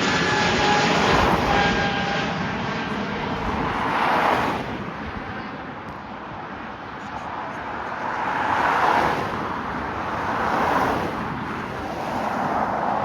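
Jet airliner engine noise: a loud rushing roar with a faint whine in the first couple of seconds, swelling and easing several times.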